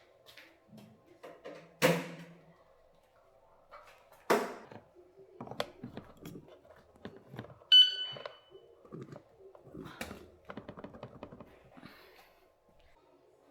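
A series of knocks and thuds from things being handled and set down indoors, with one short, sharp electronic beep about eight seconds in and a run of small rattling clicks near the end.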